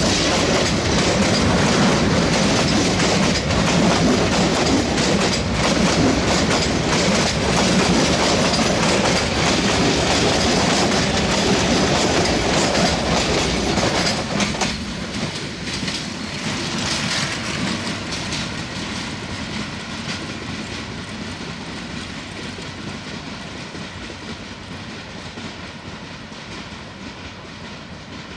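Passenger coaches of a metre-gauge express train rushing past close by, the wheels clattering over the rail joints. About halfway through, the sound drops, then fades steadily as the train moves away.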